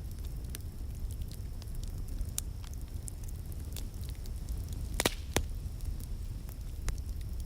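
Wood fire crackling, with scattered sharp pops and two louder pops about five seconds in, over a low steady rumble.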